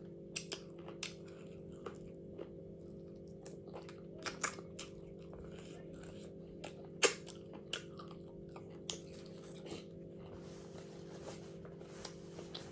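A person chewing and biting crunchy food close to the microphone, with irregular sharp crunches, the loudest about seven seconds in, over a steady low hum.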